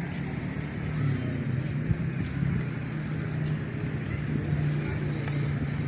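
A steady low engine hum, as from a motor vehicle running, over a constant rumble.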